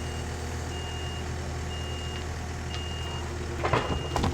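Skid steer engine running with its backup alarm beeping about once a second. Near the end, a few heavy knocks as logs bang down off the forks.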